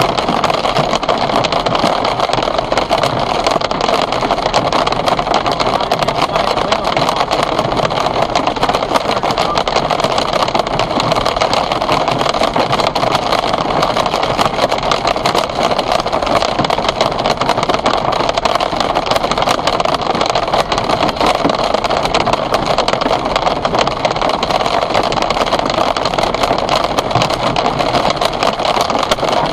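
Hailstones pelting down in a heavy hail storm: a loud, steady, dense clatter of countless small impacts.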